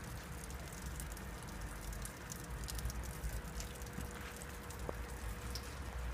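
Light rain turning to snow, falling with a soft, steady hiss and many scattered small drip taps.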